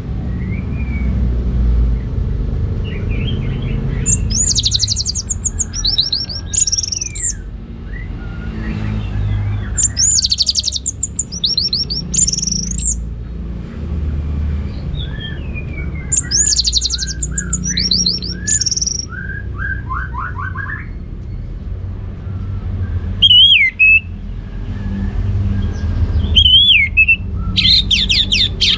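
Orange-headed thrush singing: bursts of high, rapid trilled phrases every few seconds, with softer whistled notes in between, over a steady low rumble.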